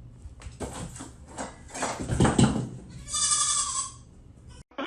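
An animal cries out once, high-pitched and drawn out for about a second, about three seconds in. Before it comes a run of short, rough sounds.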